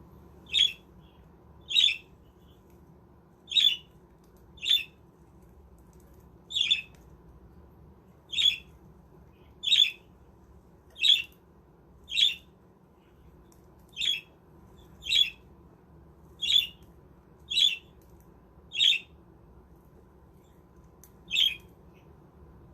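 Budgerigar giving short, harsh squawks, one about every second, some fifteen in all, with a gap of a couple of seconds near the end.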